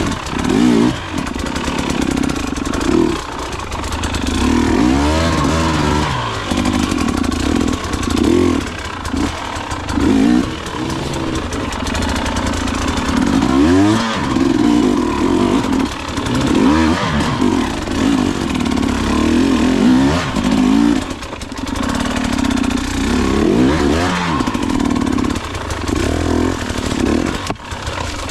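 Enduro dirt bike engine being ridden, its revs rising and falling over and over as the throttle is opened and closed.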